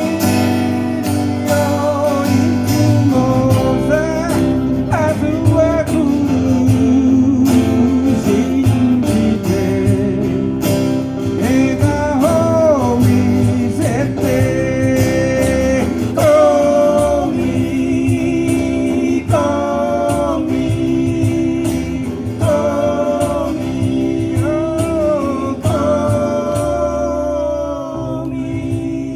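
A song performed live: a singer with strummed guitar accompaniment and a steady bass line.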